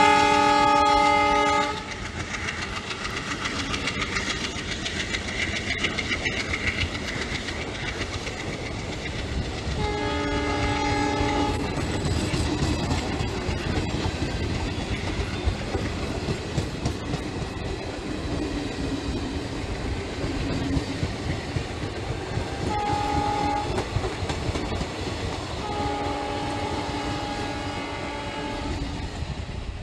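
Passenger coaches rushing past close by, their wheels clattering over the rail joints in a steady rush. A diesel locomotive horn sounds four times over it: a loud blast at the start, another about ten seconds in, a short toot later, and a longer blast near the end.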